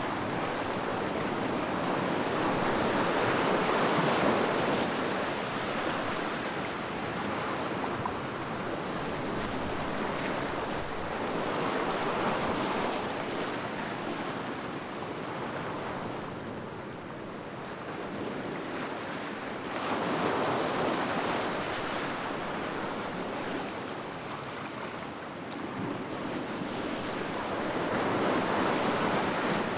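Sea waves washing onto the shore, the surf swelling and fading in long surges about every eight seconds.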